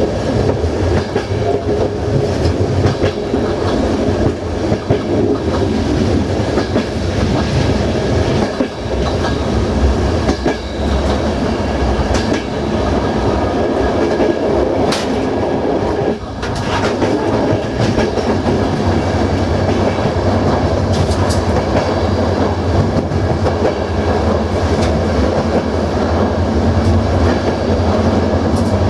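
Passenger train running on its rails, a steady rolling rumble of the coach's wheels, with occasional sharp clicks and clatters over rail joints.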